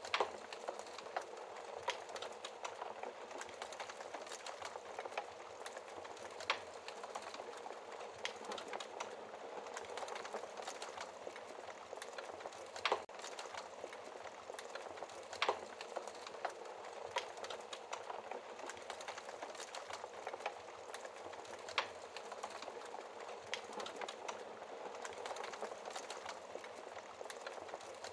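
Wood fire burning in a fireplace: a steady soft hiss with scattered crackles and several louder sharp pops spaced a few seconds apart.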